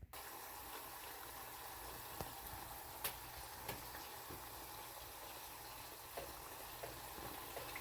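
Chicken breast frying in hot oil: a steady sizzle with scattered small pops.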